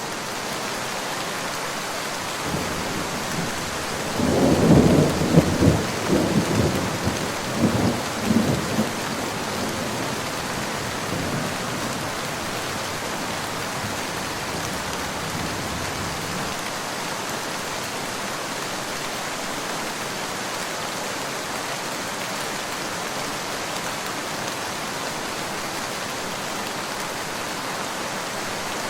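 Steady rain falling, with a roll of thunder that builds about three seconds in, rumbles loudest in several swells over the next few seconds, and dies away after about sixteen seconds.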